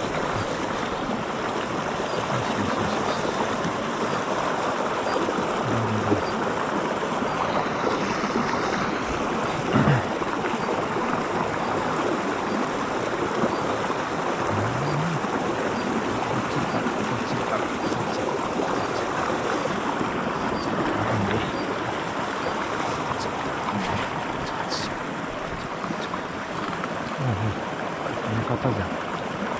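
Steady rushing of a mountain stream, with a few faint short low sounds and a brief knock about ten seconds in.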